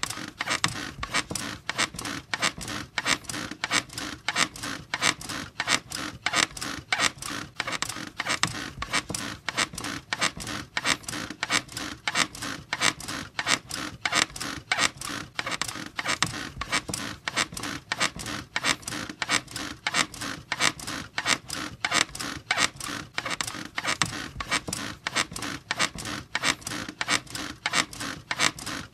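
A squeaky bed squeaking over and over in a steady, even rhythm.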